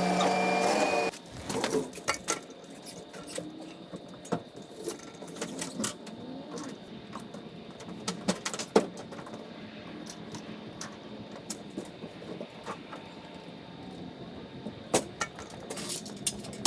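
Scattered clicks, clanks and knocks of a dirt bike being loaded into a pickup truck. A steady hum stops about a second in.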